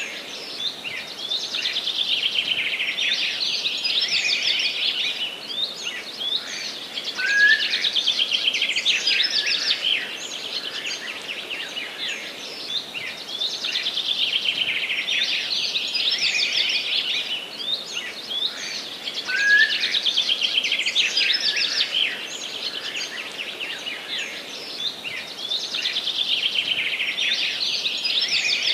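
Small songbirds singing: a dense, high twittering chorus that swells and fades in waves every few seconds. Twice a short, lower rising note cuts through.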